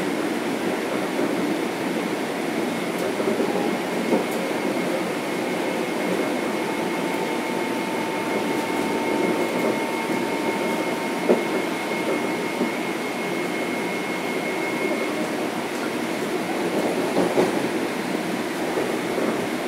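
Interior ride noise of a Metro-North M7 electric multiple unit running at speed: a steady rumble of wheels on rail with an occasional sharp click. Through the middle a faint steady high whine holds for several seconds.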